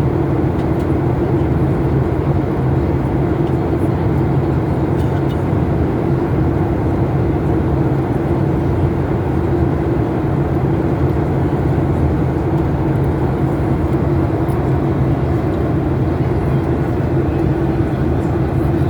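Steady drone of engines and airflow inside a Boeing airliner's passenger cabin in flight, with a constant low hum and no change in pitch or level.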